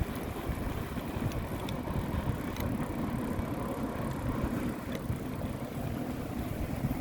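Steady low rumble of wind on the microphone and road noise while riding a bicycle, with a few faint clicks.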